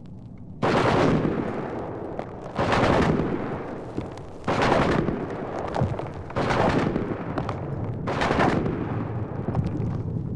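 Heavy gunfire: five loud blasts about two seconds apart, each trailing off into a long rumbling echo.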